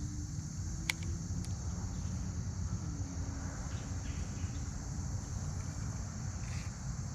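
Steady chorus of crickets singing in a high unbroken band, over a low steady rumble. A single sharp click sounds about a second in.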